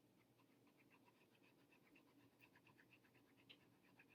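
Near silence, with faint, rapid soft ticking.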